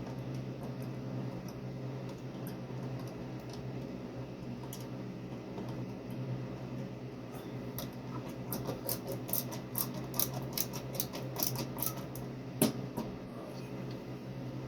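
A run of small clicks and scratches, denser in the second half and ending in one sharper click, over a steady low hum.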